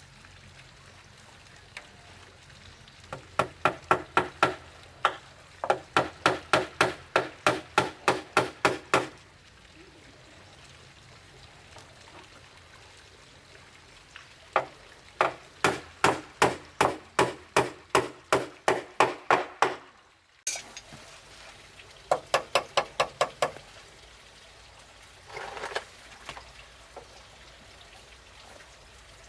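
A hand tool striking wood in fast runs of blows, about four to five a second. There are four bursts with short pauses between them, as in hammering or chopping during timber framing work.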